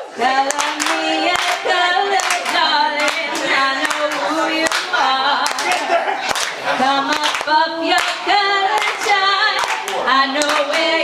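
A cappella singing by several voices, with hand claps keeping the beat.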